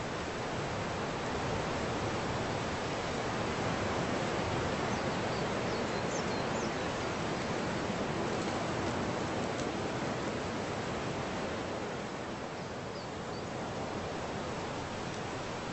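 Steady rushing noise, even and unbroken, with a few faint short high chirps about a third of the way in and again near the end.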